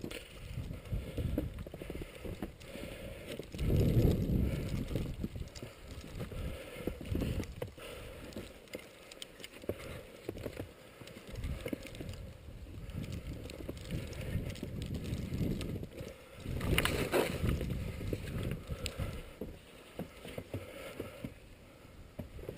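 Rustling and uneven low thumps from the wearer of a body-worn camera moving about on foot during an airsoft game. It comes in louder stretches about four seconds in and again near seventeen seconds.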